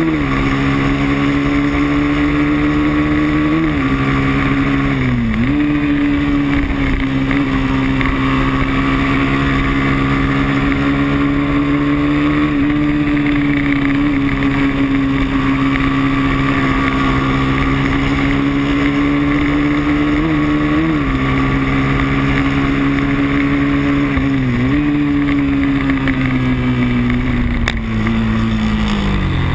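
Moto3 racing motorcycle engine running at high revs under full throttle. The note holds nearly steady, dips briefly in pitch several times, and falls away near the end.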